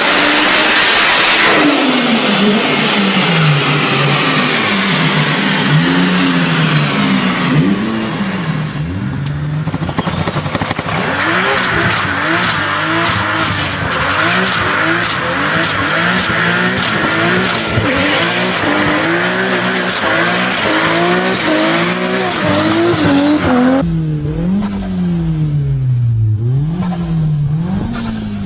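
Car engines revving hard in several short clips, the engine note climbing and dropping over and over. In the middle stretch a high turbocharger whistle climbs with each rev and falls away as the throttle closes.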